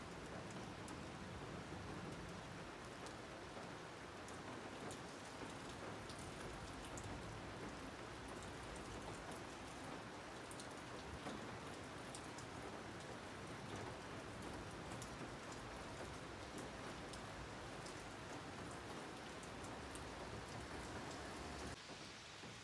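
Steady rain falling, a continuous hiss with scattered drop ticks and no thunder. The sound drops off suddenly a little before the end.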